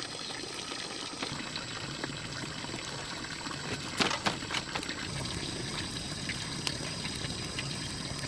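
Water running or pouring steadily, with a brief cluster of sharp knocks about four seconds in.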